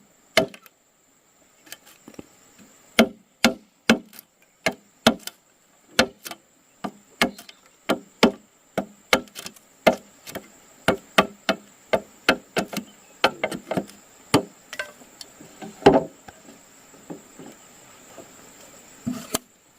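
Wood being struck again and again with a tool, as in chopping or hammering: sharp knocks about two a second with a few short pauses, and one heavier thud about sixteen seconds in.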